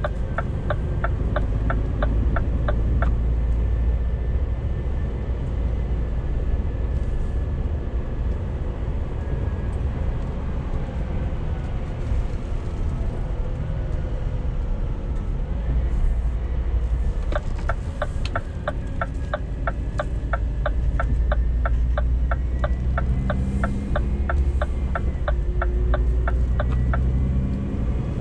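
Scania G410 CNG truck on the move, heard from inside the cab: a steady low rumble of its 12.7-litre methane engine and the road. The turn-signal relay ticks about twice a second at the start, and again for about ten seconds in the second half.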